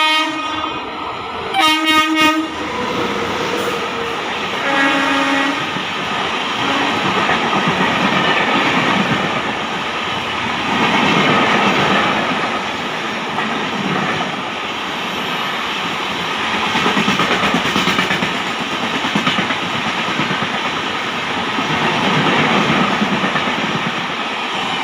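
Indian Railways express train passing close by: the locomotive horn sounds twice, a loud blast about two seconds in and a shorter, fainter one a few seconds later. Then comes the steady rush and clickety-clack of the coaches going past, swelling and easing every few seconds.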